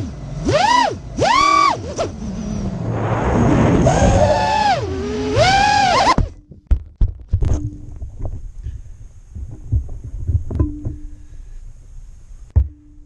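FPV quadcopter's brushless motors whining, the pitch swooping up and down several times with the throttle, then cutting out abruptly about six seconds in. Scattered knocks and thumps follow.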